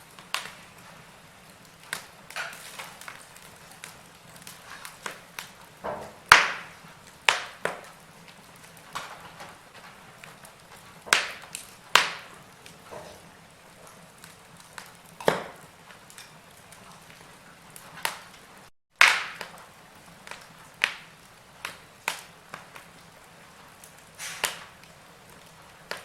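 Log fire crackling: irregular sharp pops and snaps of burning wood over a soft hiss, with a split-second gap of silence about two-thirds of the way through.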